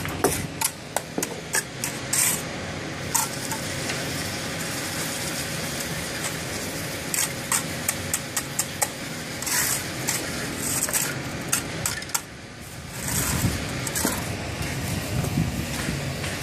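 Machinery running steadily during a concrete pour, with many sharp clicks and scrapes over it; the low running sound drops briefly about three quarters of the way through, then comes back stronger.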